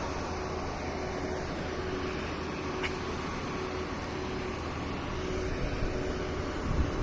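Steady road-vehicle noise: a constant low rumble with a faint hum. A short tick comes about three seconds in, and a thump near the end.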